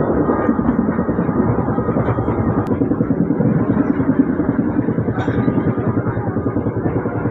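Passenger train running at speed, heard from inside the coach: a steady, loud rumble of wheels on rail and car body.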